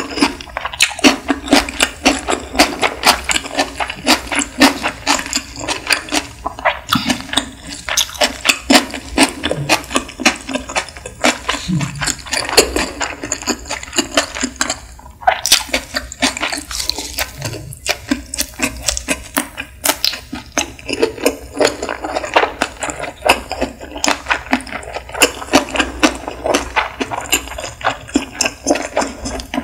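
Close-miked chewing of sushi: a continuous run of quick mouth clicks and smacks, several a second.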